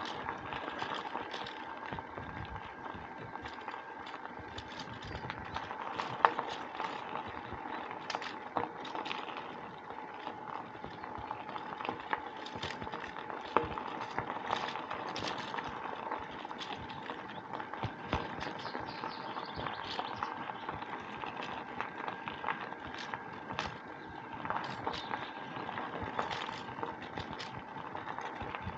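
Bicycle rolling along a woodland track, with a continuous rush and many small scattered clicks and rattles over a faint steady hum.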